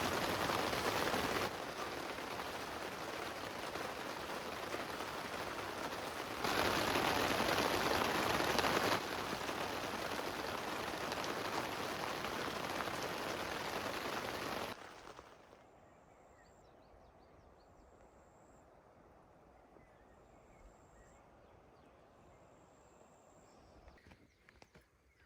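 Steady heavy rain hiss whose loudness jumps up and down abruptly several times, then falls away about 15 seconds in to a quiet outdoor ambience with a few faint high calls.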